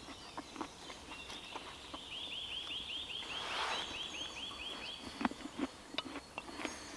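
A small bird singing a run of about a dozen quick, repeated falling notes lasting about three seconds. Under and after it come light clicks and knocks of a knife cutting an apple on a wooden board, a few louder knocks coming after the song ends.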